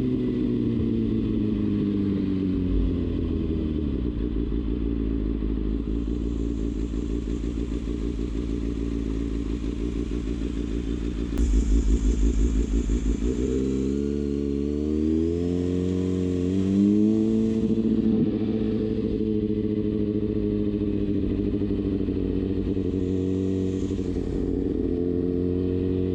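Kawasaki Ninja ZX-6R inline-four engine slowing with falling pitch, then running low and steady for several seconds. It then pulls away, the pitch climbing and dipping at each gear change, and settles into a steady cruise.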